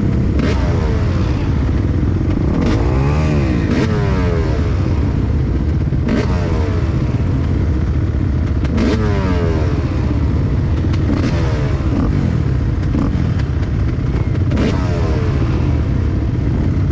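Several motocross bikes racing on a dirt track, their engines revving up and falling back again and again through gear changes. The pitches of the different engines overlap and cross as the bikes go round.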